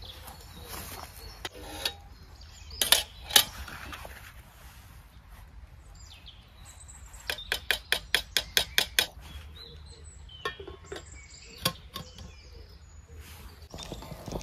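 Metal utensil clinking against a cooking pot: two sharp knocks, then a quick even run of about ten clinks at about five a second, and one last knock a few seconds later.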